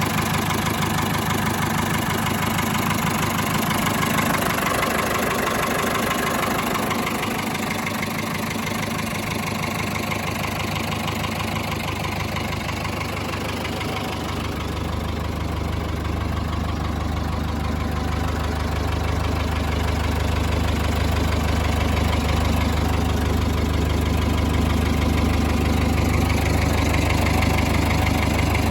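1973 Ford 7000 tractor's four-cylinder diesel engine idling steadily, with a diesel knock. Its low note grows stronger about halfway through.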